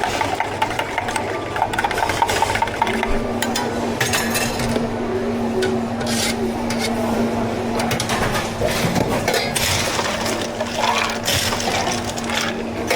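Drink-making sounds at a bubble tea counter: scraping, rubbing and pouring noises with scattered clicks. A steady machine hum starts about three seconds in and runs on beneath them.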